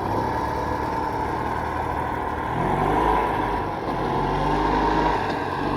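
A motor vehicle engine running, its pitch rising about two and a half seconds in and again near the end.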